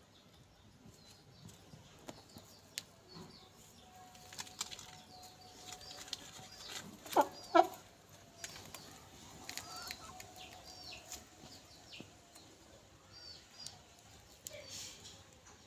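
Chickens, a rooster and small chicks, feeding: scattered sharp pecking taps and short high chick peeps, with wing flapping and two loud calls close together about seven seconds in.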